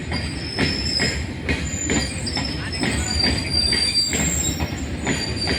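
Railway wagons rolling past, their wheels knocking over the rail joints about twice a second, with thin high-pitched wheel squeal over the top.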